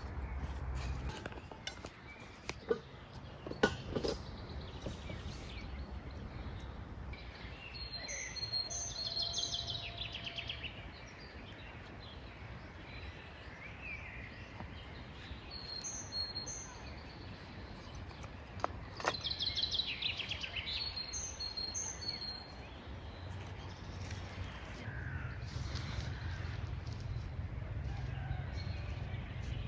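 Birds singing and calling in two spells, about a third of the way in and again about two-thirds in, over a steady background noise, with a few sharp clicks a few seconds in.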